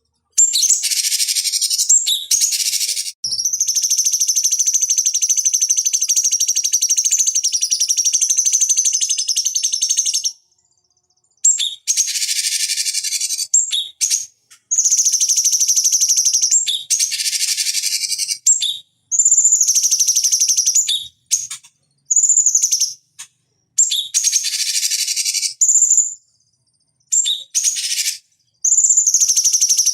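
Cucak cungkok songbird singing loud, high-pitched phrases of rapid chattering notes over a held whistle-like tone, in bursts of one to several seconds with short pauses between them; the longest phrase comes early and runs about seven seconds.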